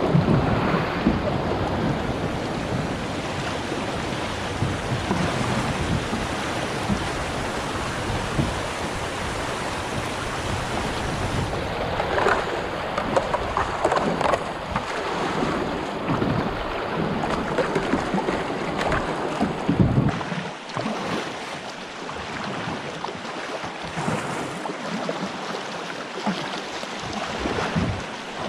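Wind buffeting the microphone over the wash of moving water, the low rumble dropping away about two-thirds of the way through.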